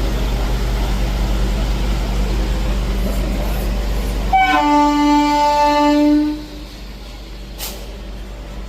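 Local train running with a steady rumble; about four seconds in, its horn sounds for about two seconds, and the running noise is quieter afterwards.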